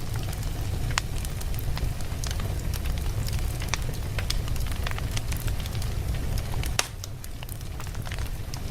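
Wood logs burning in a fireplace: a steady low rumble of the flames with frequent sharp crackles and pops from the burning wood, one louder pop just before the last two seconds.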